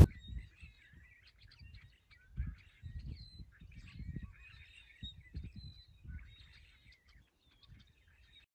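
Small birds chirping and twittering faintly in short scattered calls and whistles, with intermittent low rumbling underneath.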